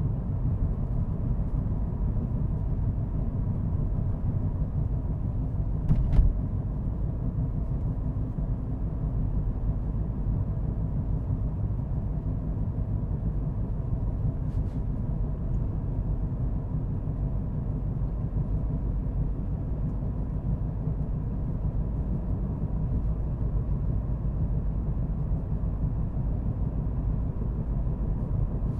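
A car driving: steady low rumble of road and engine noise, with one short knock about six seconds in.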